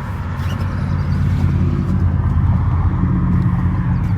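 A Jeep Wrangler's 3.0-litre turbo-diesel V6 idling steadily, with a low, even engine note.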